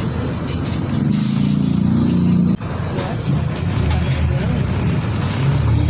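Mercedes-Benz OF 1722M bus diesel engine pulling, its pitch rising for about a second and a half, then dropping suddenly at a gear change to a lower steady rumble. A short hiss of air comes about a second in.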